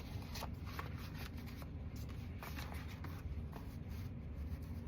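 Paper pages being handled and slid into place, with soft intermittent rustles over a steady low hum.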